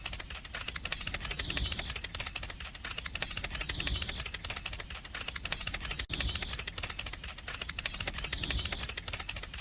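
Rapid, even mechanical clicking rattle, with a brief break about six seconds in.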